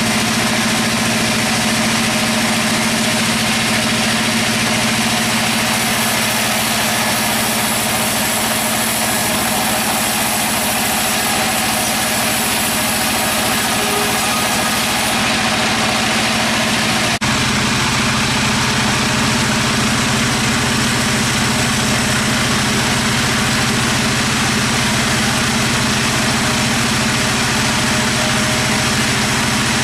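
Sawmill machinery running with a steady engine drone and a constant mechanical rumble. It shifts abruptly to a lower, heavier drone partway through.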